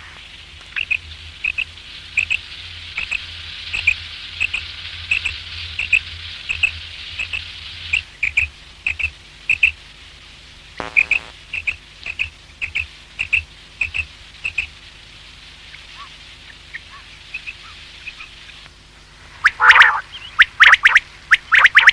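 Common quail calling: a long run of short, high pips at about two to three a second, thinning out and fading after about fifteen seconds, then louder, sweeping calls near the end.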